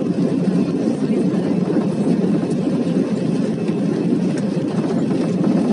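Steady low rumble of an Airbus A320 airliner's engines and airflow during takeoff.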